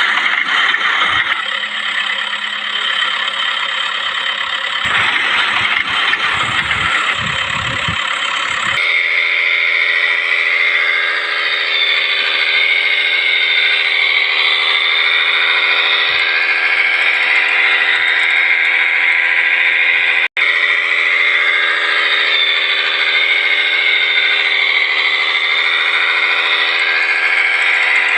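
Mini truck running with a steady high whine over the engine. About nine seconds in it changes suddenly from a rougher, rattling sound to a smooth steady whine, with a brief dropout about twenty seconds in.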